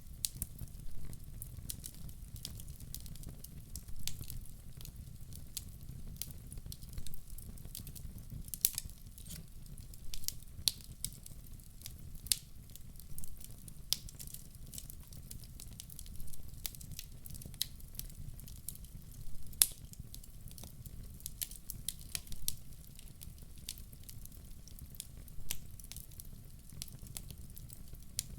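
Wood fire burning in a fireplace: a steady low rumble of flame with irregular sharp crackles and pops, a few louder snaps among them.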